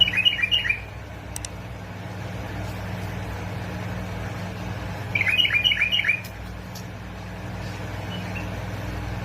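Bulbul calling in two short bursts of quick chirping notes, one at the start and one about five seconds in, over a steady low hum.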